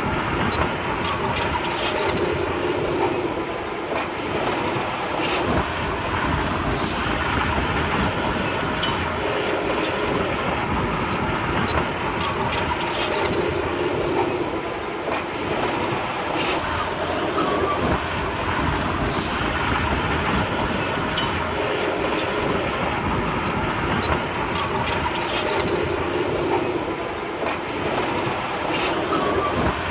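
Komatsu D31P crawler bulldozer working: its diesel engine runs steadily, swelling and easing every few seconds, with frequent sharp metallic clanks.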